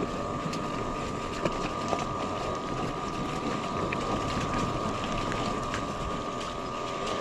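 Yatri P1 electric motorcycle riding over a rough, rocky track: a steady high whine from the electric drive, with scattered clicks and rattles as the bike goes over stones.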